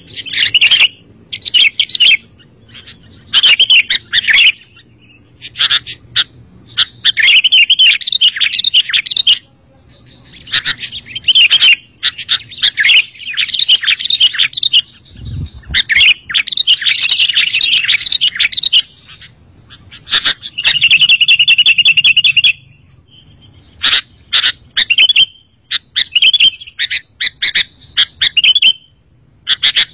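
Sooty-headed bulbul (kutilang) singing: bursts of bright, chattering warbles in short phrases with brief pauses between them, and a buzzy rattling phrase near the end. A brief low thump sounds about halfway through.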